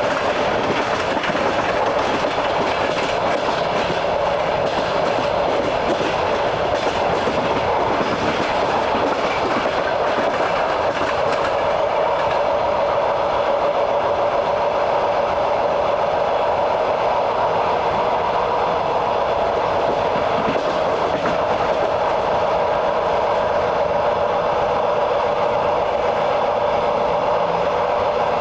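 Train running along the track, heard from aboard: a steady rolling noise with a hum, and the wheels clicking over the rail joints through the first dozen seconds.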